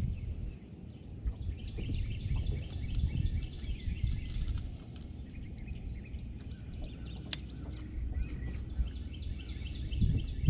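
A songbird singing two long runs of rapid repeated chirps, over a constant low rumble of wind on the microphone, with a few faint clicks.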